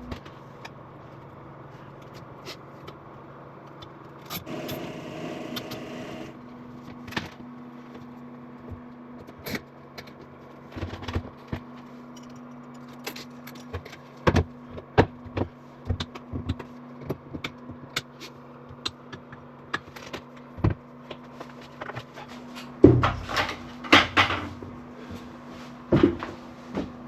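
Scattered clicks, knocks and a brief scrape of hands handling and fitting small hardware, over a steady low electrical hum. The knocks come thicker in the second half, with the loudest cluster a few seconds before the end.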